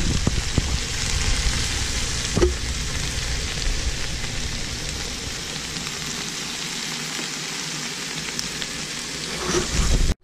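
Chopped Swiss chard and kale sizzling as they sauté in butter and olive oil in a skillet, with a spatula stirring and knocking against the pan a few times in the first couple of seconds. The sizzle cuts off suddenly near the end.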